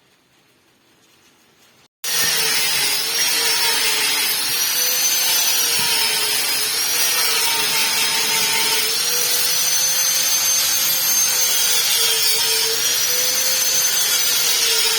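A handheld electric power tool running steadily, its whine wavering up and down in pitch. It cuts in suddenly about two seconds in, after near silence.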